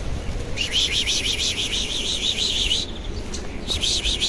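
A small bird singing a fast trill of evenly repeated high chirps, in two runs: one about two seconds long, then a shorter one near the end. A steady low rumble lies underneath.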